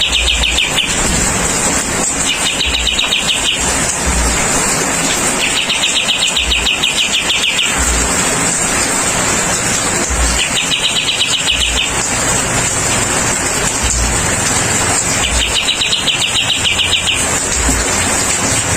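Kapas tembak bulbul giving rapid, buzzy trills, each a second or two long, repeated about every four to five seconds over a steady hiss of falling water.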